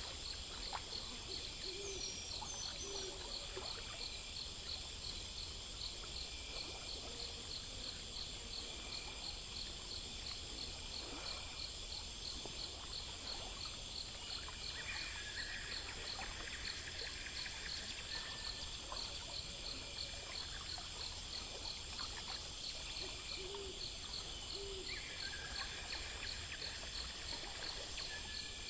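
Night ambience of crickets and other insects chirping in a fast, steady rhythm, with an owl giving two low hoots about two seconds in and two more around twenty-three seconds.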